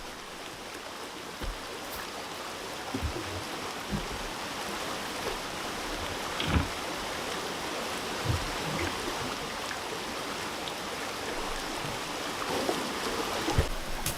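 Steady rush of flowing water, with scattered light knocks; the sharpest comes about six and a half seconds in.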